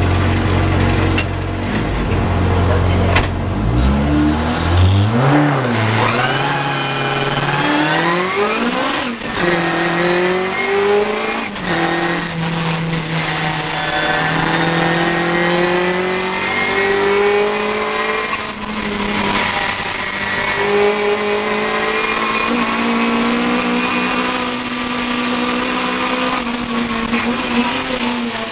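Competition car's engine at a steady low idle, then launching about three seconds in and accelerating hard up through the gears: the pitch climbs and drops back at each of several gear changes, then falls away near the end. Heard from inside the stripped cabin.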